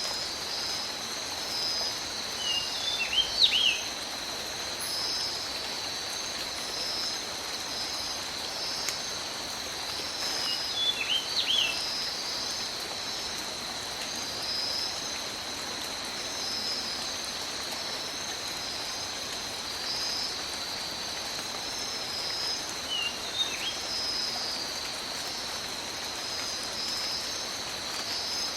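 Steady tropical rain falling in a rainforest. Over it runs a high, evenly pulsing chorus. A bird gives short gliding calls three times: early on, about a third of the way in, and again past the middle.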